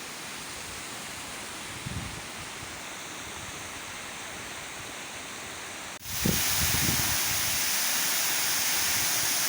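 Waterfall rushing steadily, running full after the winter rains. About six seconds in the sound jumps suddenly louder and brighter, the falling water heard close up, with low rumbling underneath.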